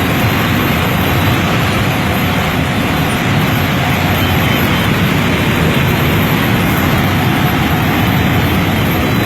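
Steady, loud cabin noise of a small airplane in flight, unchanging throughout.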